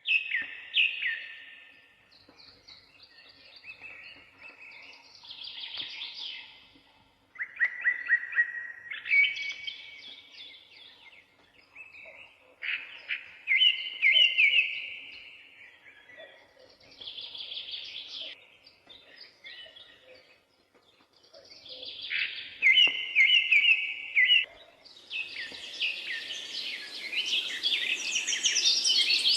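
A songbird singing, short phrases of quick trilled notes repeated every few seconds. Near the end a denser chorus of higher chirping sets in.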